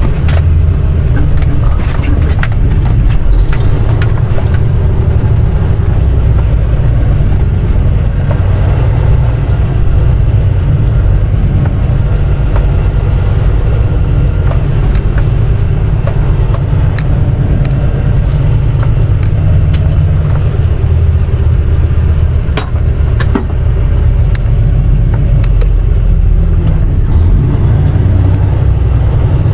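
Semi truck's diesel engine running steadily, a loud low rumble heard from inside the cab, with scattered sharp clicks over it.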